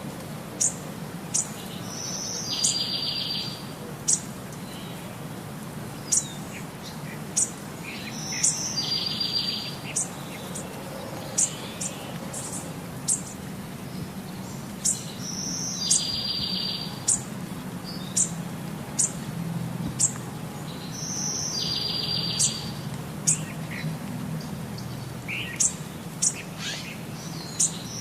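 Birds chirping: many short, sharp high chirps, with a buzzy trill that comes back about every six seconds, over a low steady hum.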